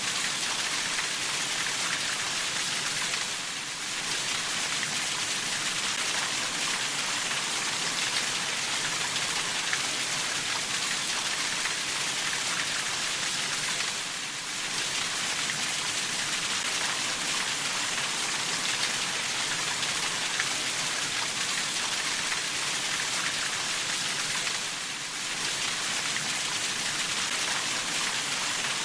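Steady rain falling, a dense hiss of many drops. It dips briefly three times, about every eleven seconds.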